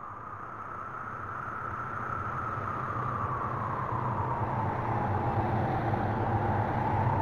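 Vehicle engine noise, a steady rushing rumble that grows slowly louder, its pitch sinking a little in the second half.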